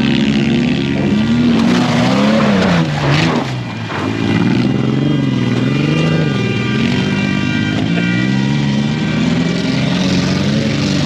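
Off-road race truck engine revving hard, its pitch swinging up and down again and again as the throttle is worked, with a short drop about three to four seconds in.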